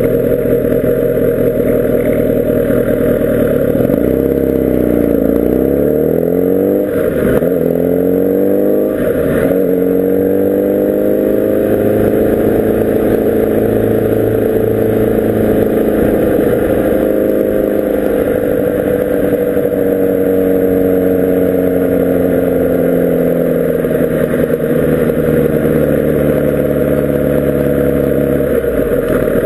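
Kawasaki Ninja ZX-10R SE's inline-four engine running under way, its note dropping and rising several times through gear changes in the first ten seconds, with two short clacks about seven and nine seconds in. It then climbs and slowly eases off over a long steady pull.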